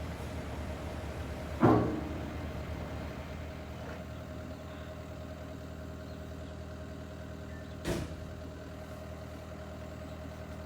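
Engine idling steadily, with one loud knock about a second and a half in that dies away, and a second, sharper knock near the end.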